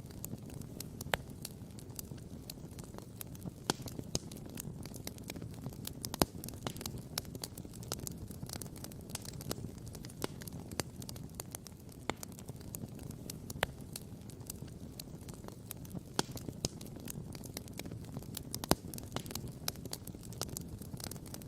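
Wood campfire crackling and popping in sharp, irregular snaps, a few louder pops standing out, over a steady low rumble.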